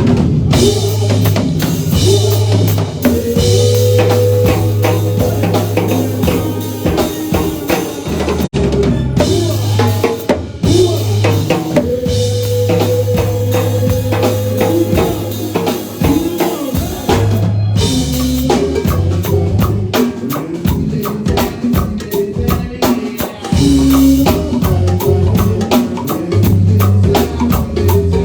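A band playing an instrumental passage: drum kit with bass drum, snare and rimshots keeping a steady beat under a bass line and long held melody notes.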